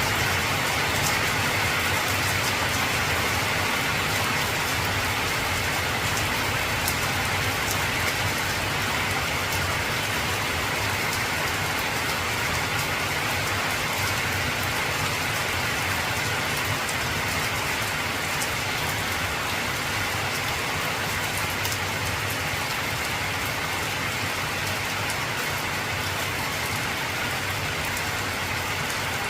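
Heavy rain falling steadily on an old tin roof, with many small sharp drop ticks on the metal.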